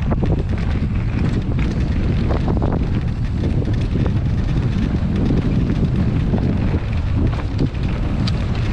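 Wind buffeting the microphone while riding along a rough track, a loud, steady low rumble with scattered knocks and rattles.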